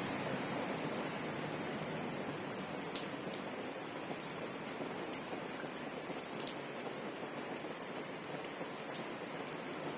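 Steady rain falling, an even hiss with a few sharper drips ticking through it.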